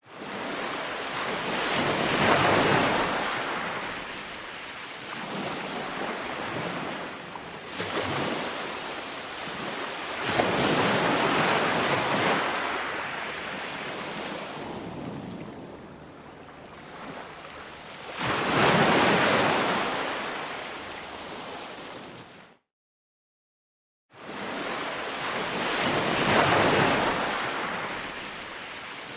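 Ocean waves breaking on the shore, the surf rising and falling in swells every few seconds. The sound drops to dead silence for about a second and a half near the end, then the surf resumes.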